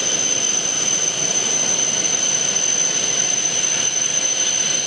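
E7 series Shinkansen train standing at the platform, its equipment cooling fans running with a steady whir and a constant high-pitched whine.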